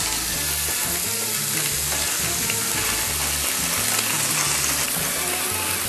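Shrimp pan-frying in oil in a stainless steel pan: a steady sizzle.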